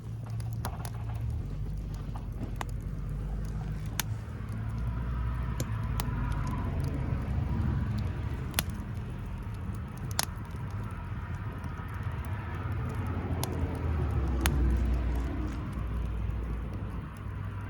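Wood fire crackling, with sharp irregular pops over a low steady rumble that swells and fades a couple of times.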